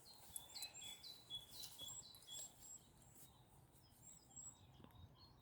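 Faint outdoor ambience: small birds chirping over and over in short, high notes, with the distant noise of children shouting in a school playground.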